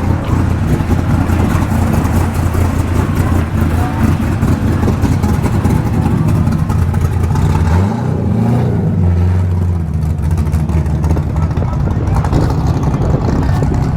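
Car engines running steadily, with one revving up and back down briefly about eight seconds in.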